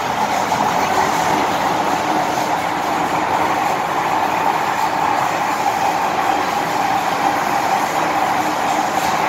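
MTR Island Line M-Train running steadily: an even, unbroken noise of wheels on rail and the train's motors, strongest in a mid-pitched band.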